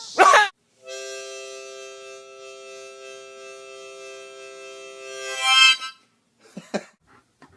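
A steady held chord of reedy musical tones, like a harmonica, lasting about four and a half seconds and swelling louder just before it stops. It is preceded by a short loud call at the very start and followed by a couple of brief faint sounds.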